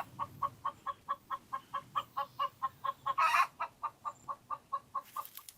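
Chicken clucking in a rapid, even series, about four to five clucks a second, with one louder, longer call about three seconds in.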